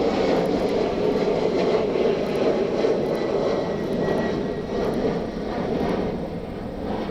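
Jet airliner's engines during a departure climb-out, a steady rushing roar that slowly fades toward the end.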